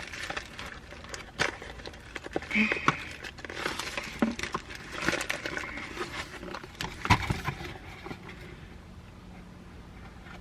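Rustling with irregular small clicks and knocks of a plastic car camera mount being handled, with one sharper knock about seven seconds in.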